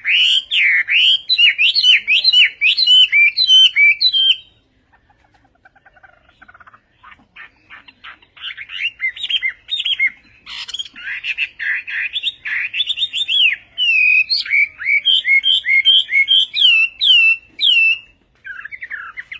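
Chinese hwamei singing: fast runs of loud, varied whistled notes that slur up and down. The song breaks off about four seconds in, comes back with softer trills a couple of seconds later, then builds again into loud phrases.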